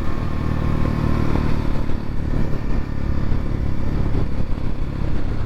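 X-Pro Templar X 250 dirt bike's single-cylinder four-stroke engine running steadily under way.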